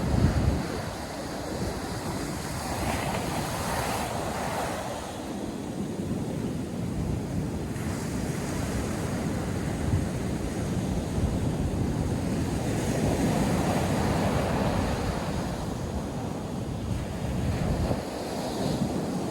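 North Sea surf washing onto the beach, a continuous rush of breaking waves that swells and eases. Wind buffets the microphone, with a strong gust right at the start.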